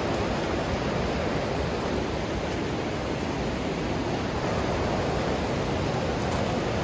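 Steady rush of a creek's water tumbling over rocks near a cascade waterfall.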